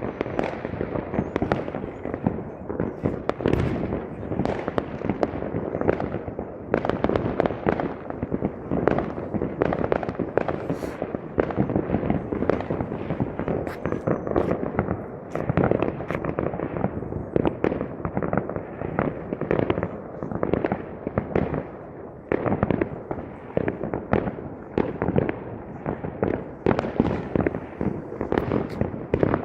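Fireworks going off in a dense, continuous barrage of bangs and crackles, many bursts a second, with no pause.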